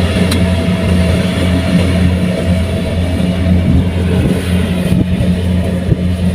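Kubota rice combine harvester's diesel engine running steadily under load, a constant low drone with machinery rattle over it.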